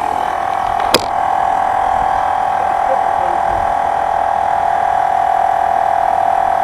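A loud, steady hum, with one sharp click about a second in.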